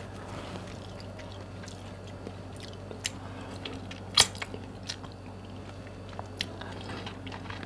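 Close-up chewing and biting on a chicken foot: soft mouth sounds and small crunches, with one sharper click about four seconds in, over a steady low hum.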